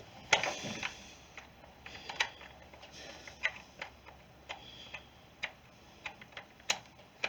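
Small metallic clicks and ticks, irregular and about one a second, of an Allen or Torx key working at the cover screws of a Stihl FS40C string trimmer. The key is worn and keeps catching and slipping in the screw heads.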